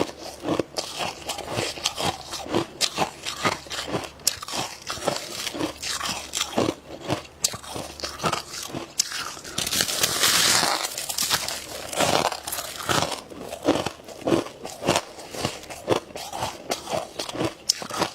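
Dry freezer frost being bitten and chewed close to the microphone: a dense run of sharp, squeaky crunches, with a longer, louder stretch of crunching about midway through.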